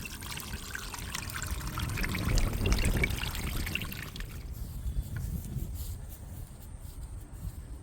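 Water trickling over a low rumble. The trickle stops about four seconds in, leaving a faint steady high whine.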